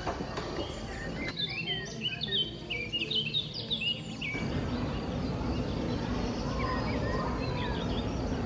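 Small birds chirping: many quick, high chirps, thickest from about one to four seconds in, over steady background noise.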